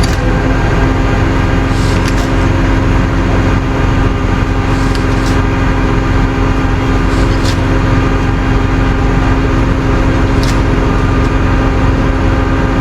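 Tow truck engine running at a steady speed, its hum holding one unchanging pitch, with a few faint light clicks.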